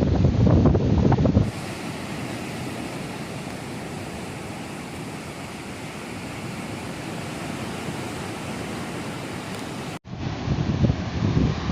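Strong wind buffeting the microphone with a loud, gusty rumble. About a second and a half in, an abrupt cut leads to a steadier, quieter, even rushing of wind and surf. Near the end, the heavy wind buffeting returns suddenly.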